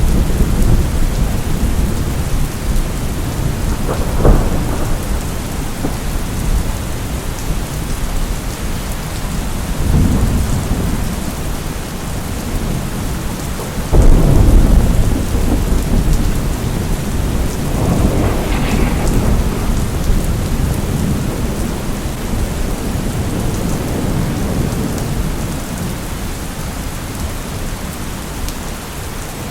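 Steady heavy rain with rolling thunder: a sharp crack about 4 seconds in, a rumble swelling about 10 seconds in, and a loud thunderclap about 14 seconds in, followed by a long low roll.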